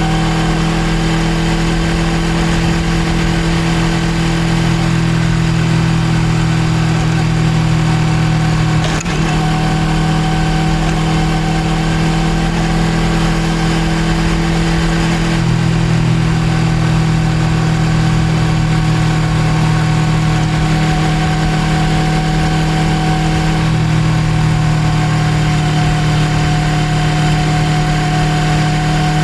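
Suzuki GSX250R's parallel-twin engine running at a steady speed, its note holding an even pitch, with one brief click about nine seconds in.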